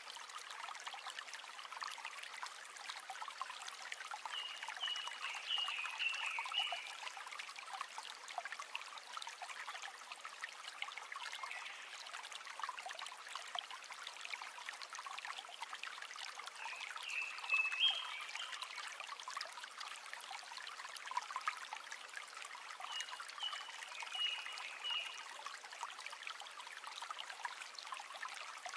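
River water running and trickling steadily over a shallow bed. Short high calls from a small animal break through a few times.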